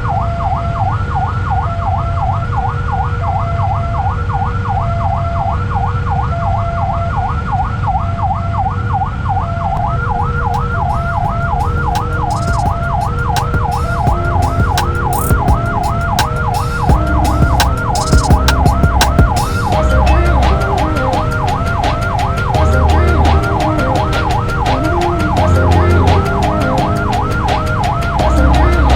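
Railway level-crossing warning alarm sounding continuously, a fast-repeating rising-and-falling electronic tone about two or three times a second over a slower pulsing lower tone. About ten seconds in a train starts passing, its wheels clacking over the rail joints with a heavy low rumble that grows louder.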